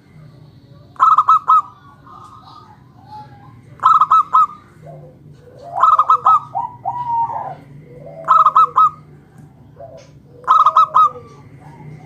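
Zebra dove (perkutut) singing: five phrases, each a quick stuttering run of three or four bright cooing notes, about every two and a half seconds, with softer lower coos between them.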